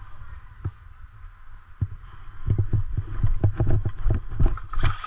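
Footsteps moving quickly, with irregular heavy thumps on the microphone. Near the end a fast run of sharp clicks starts.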